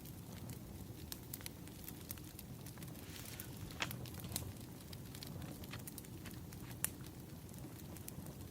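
Burning firewood crackling: a steady low hiss with scattered sharp pops, three louder ones a little before the middle and about two-thirds through.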